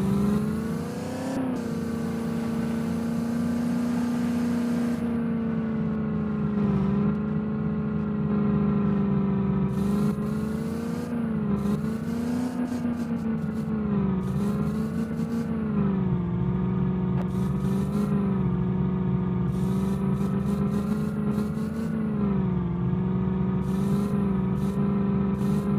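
Small Maruti car's engine running under way, its pitch rising and falling gently as the revs change, with scattered short clatters.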